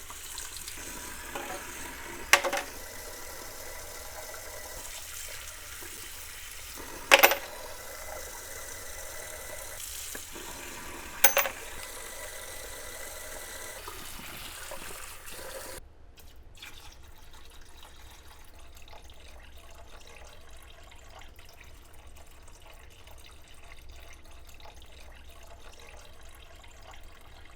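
Wire wheel brushing small steel washers: a steady hiss with three sharp clicks. It stops abruptly about sixteen seconds in, leaving only a faint hiss.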